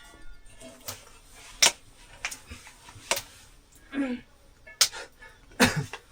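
Dishes and utensils clinking and knocking: sharp, irregular clicks about one or two a second, with a short voice-like sound about four seconds in.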